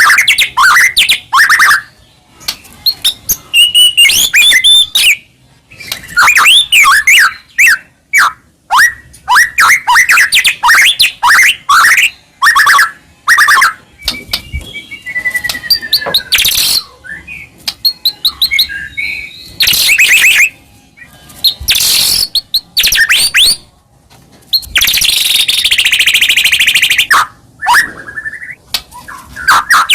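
White-rumped shama (murai batu) singing loudly and continuously: fast, varied phrases of whistled notes and chirps sliding up and down in pitch, with a dense rapid rattle a few seconds before the end.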